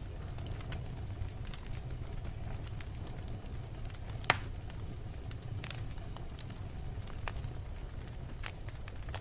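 Wood logs burning in a fireplace: a steady low rumble of the flames with scattered crackles and pops, and one loud sharp pop a little past four seconds in.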